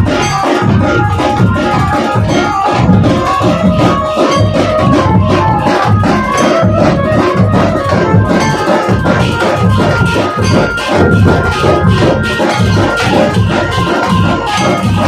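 Dhol-tasha troupe drumming: dense, fast beating on large barrel drums, with steady high tones sounding over the beat.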